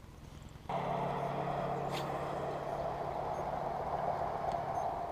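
A boat motor is switched on a little under a second in and runs with a steady, even hum. There is a single faint click about two seconds in.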